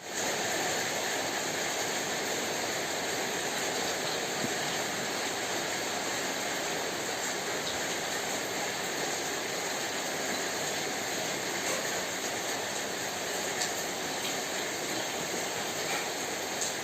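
Steady rain falling, an even hiss with a few faint ticks of drops now and then.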